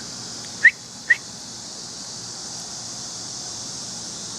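Two short, high chirps, each rising sharply in pitch, about half a second apart, over a steady high hiss.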